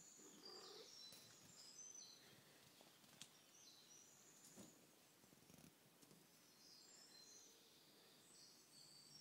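Near silence, with faint high-pitched bird chirps in short runs now and then and two soft clicks.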